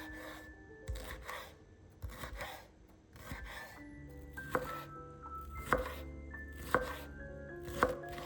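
Knife cutting food on a cutting board: a short slicing stroke ending in a sharp knock on the board, about once a second, with background music.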